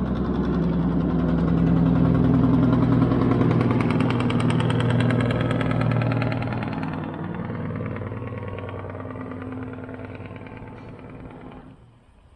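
A vehicle engine running, loudest a few seconds in and then gradually fading as it moves away, before the sound drops off abruptly near the end.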